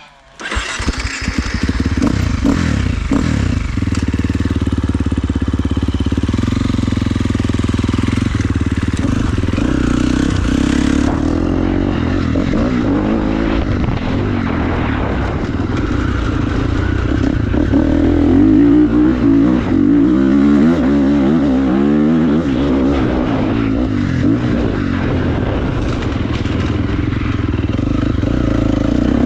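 Dirt bike engine running loud and steady, starting abruptly, with the revs rising and falling in the second half.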